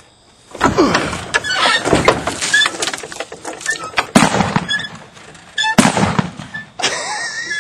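Trebuchet launching: a rushing, clattering noise as the throwing arm swings, with sharp bangs about four and six seconds in.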